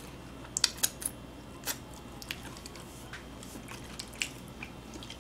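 Close-up eating of fried chicken: irregular sharp wet clicks and smacks of chewing, several of them in the first two seconds and fewer later, over a low steady room hum.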